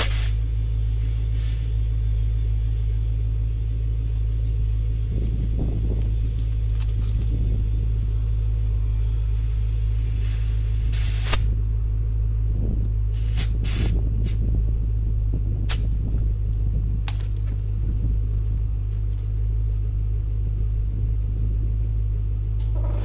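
Car engine idling with a steady low rumble. Over it come short bursts of compressed air hissing from an air chuck on a tire valve: a longer one about ten seconds in, then several short ones a few seconds later.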